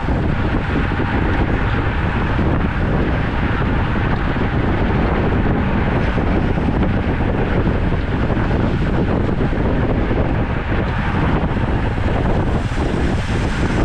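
Steady wind rushing over the microphone of a camera riding on a moving road bicycle.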